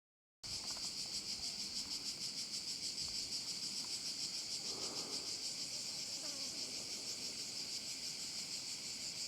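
Steady, high-pitched chorus of insects with an even pulsing rhythm, starting abruptly just after the start.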